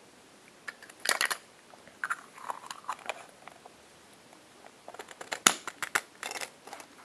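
Small plastic toy and packaging being handled by hand: scattered clicks and crinkly rustles, with a quick run of sharp clicks about five seconds in.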